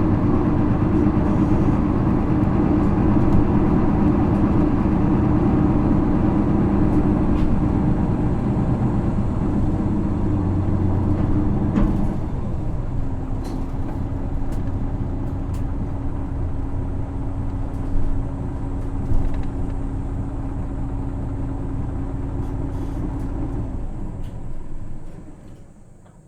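Isuzu PKG-LV234L2 city bus heard from inside, its 6HK1 diesel engine running under way. About halfway through the engine sound changes to a steady idle with a constant hum. Near the end the engine shuts off for idling stop, and the sound drops away sharply.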